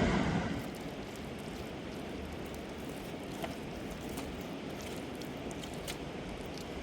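Steady rush of flowing river water, with a few light clicks scattered through it. A louder burst of the same noise fades out about half a second in.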